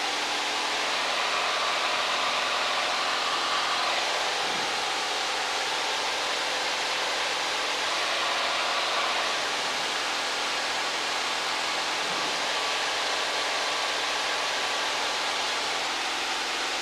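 Steady engine and propeller noise of a Cessna 172 XP heard inside the cabin while climbing out after takeoff, an even rushing drone with a faint steady hum beneath it.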